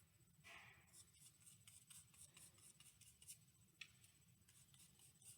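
Faint, soft scratchy strokes of a paintbrush being worked over a cardboard tube, several short strokes in a row.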